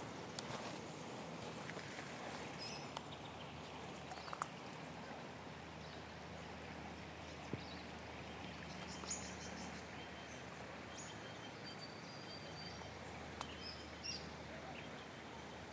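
Outdoor bush ambience: a steady low rumble and hiss with birds chirping, the calls coming mostly in the second half, and a few scattered clicks or crunching steps.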